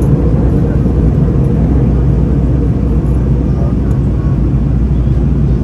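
Steady, loud engine and air noise of a jet airliner heard from inside the passenger cabin, with a low steady hum and faint voices in the background.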